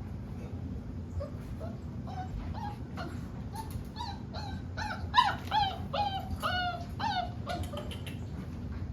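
Boerboel dogs whining and yipping: a quick run of short, high calls that each bend down in pitch, a few a second, growing louder about halfway through and then tailing off near the end.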